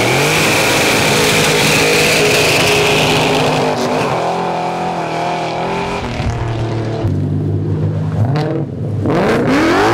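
A car leaving under power with its tires squealing for about the first four seconds, the engine revving hard. The engine then runs on, wavering, and revs up again near the end.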